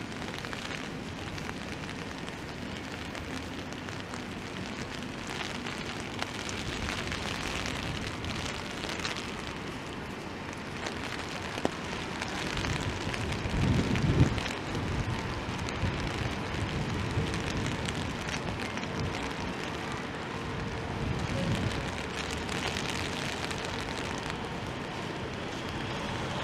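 Steady rain hiss on a city street, with traffic noise underneath. About halfway through, a louder low rumble swells and fades, with a single sharp click just before it.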